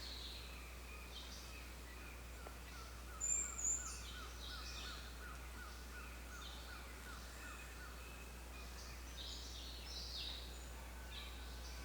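Several birds chirping and calling together, one of them repeating a short note about four times a second for some five seconds, with two loud, high chirps about three seconds in.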